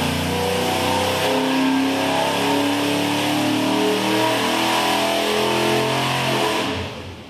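Chevrolet 307 small-block V8 running hard under load on an engine dyno during a power pull, heard from the control room through the glass. Near the end the pull ends and the engine sound drops away suddenly.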